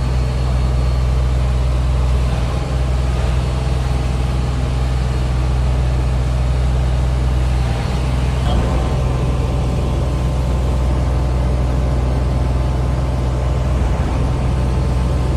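Heavy vehicle's engine running steadily with a deep, even drone.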